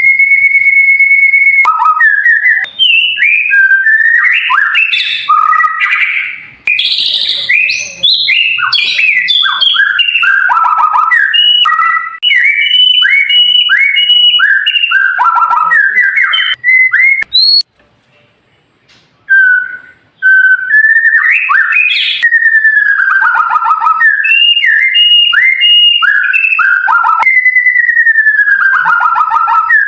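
White-rumped shama singing: loud, clear whistled phrases of rapid sweeping and falling notes, opening on a long held whistle, with a brief pause a little over halfway through.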